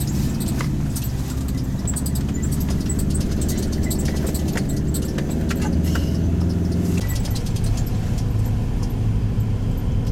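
Hyundai Galloper's engine running as heard inside the cabin while driving on a snowy road, with many small clicks and rattles over it. The engine note changes about seven seconds in.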